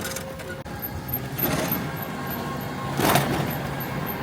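A car engine running steadily, with two brief rushes of noise.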